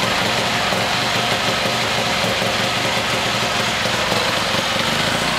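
Suzuki LT-R450 single-cylinder four-stroke engine running steadily at an even speed on an engine dynamometer during its first run.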